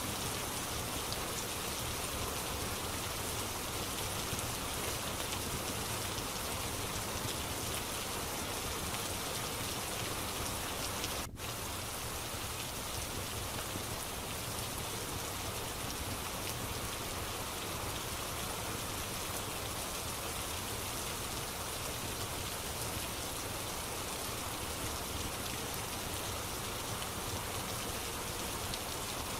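Steady rain, an even hiss of drops on a surface, with a momentary dropout about eleven seconds in.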